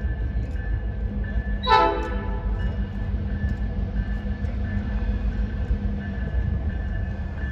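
Train rumbling steadily past, with one short horn toot about two seconds in. A faint, thin, high squeal comes and goes over the rumble.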